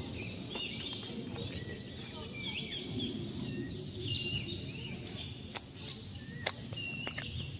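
Many short, high chirping bird calls over a steady low outdoor rumble, with a few sharp clicks in the second half.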